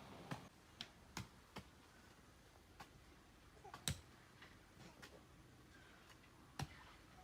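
Scattered sharp knocks and clicks at irregular intervals, the loudest about four seconds in, over a quiet background.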